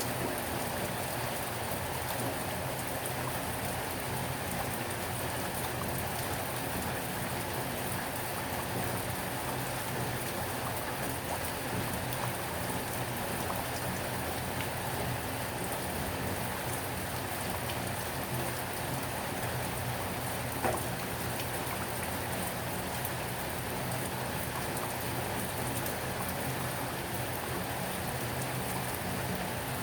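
Heavy rain falling steadily, drops pattering on surfaces, with one brief sharper drop or tick about two-thirds of the way through.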